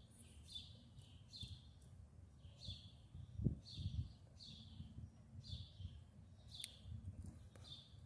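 A bird chirping faintly and repeatedly, short high chirps roughly once a second. A couple of soft low thumps come about halfway through.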